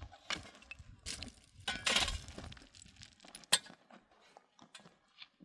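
Hard objects clinking and knocking as they are handled: a run of sharp clicks, with the loudest clatter about two seconds in.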